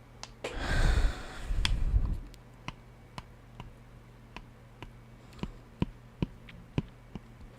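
Loud close-up handling rustle for about two seconds, then a slow, uneven run of small sharp clicks, roughly two a second.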